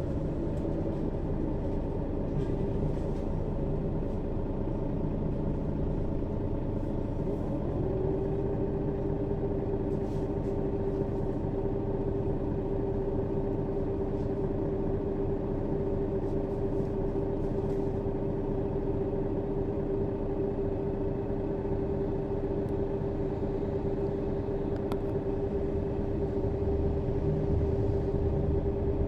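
Mercedes-Benz Citaro bus engine running, with a steady whine that steps up in pitch about eight seconds in. The low rumble grows a little louder near the end.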